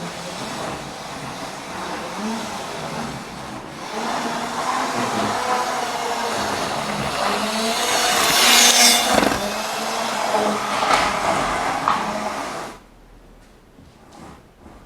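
Model train running on the layout: a small electric motor whining with the wheels rumbling on the track, growing louder to its peak about eight seconds in as it comes close. The sound cuts off suddenly near the end.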